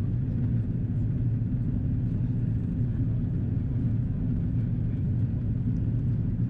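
Steady low cabin rumble inside an Airbus A330-343 airliner in descent: airflow over the fuselage and its Rolls-Royce Trent 700 engines, even in level with no changes.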